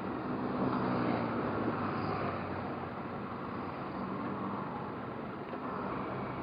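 Motorcycle engine running as the bike is ridden, a steady low hum under a rushing noise, slightly louder about a second in.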